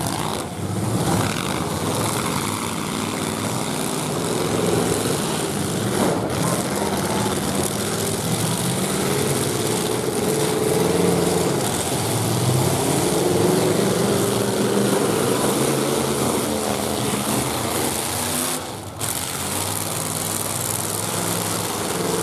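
Demolition derby pickup trucks' engines running and revving hard, their pitch rising and falling.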